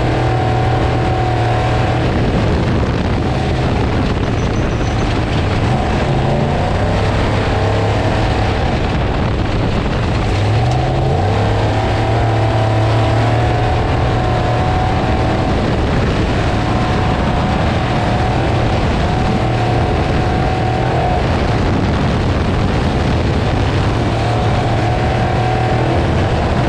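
Off-road race truck engine running hard at a steady pitch, dipping and rising briefly about eleven seconds in, over a constant rush of road and wind noise.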